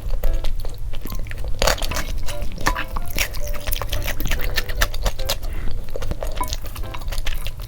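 Close-miked eating sounds: wet chewing and slurping of a soupy spicy noodle dish, with many quick smacks and clicks, over light background music.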